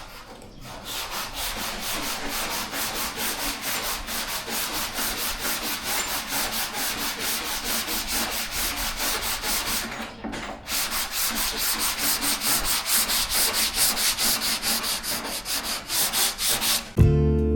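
Dry hand block sanding of automotive primer with 180-grit paper: quick, even back-and-forth strokes of paper rasping on the panel, with a short break about ten seconds in. Acoustic guitar music comes in near the end.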